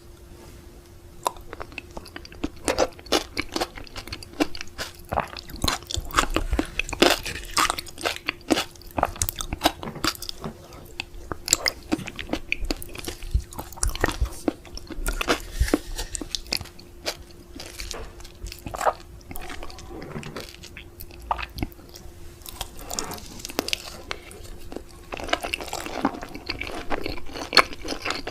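Close-miked eating: a person chewing and biting food, with many sharp, crisp crunching clicks and wet mouth sounds, over a faint steady hum.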